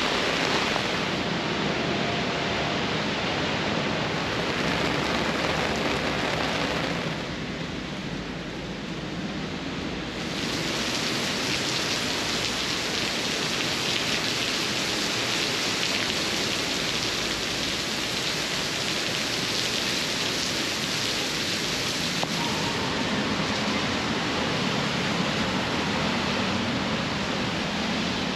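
Heavy rain pouring down, a dense steady hiss that eases about seven seconds in and comes back stronger about three seconds later.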